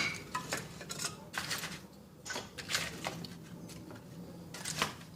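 Thin wooden kindling splints being laid by hand on a stack of firewood to build a top-down fire: a few light, separate knocks and clatters of wood on wood.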